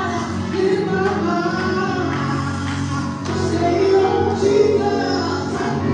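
Gospel music in church: singing voices carried over a steady sustained instrumental backing, continuous and loud.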